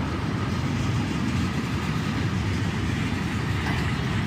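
Freight train rolling past on the rails, a steady low rumble of wheels and cars.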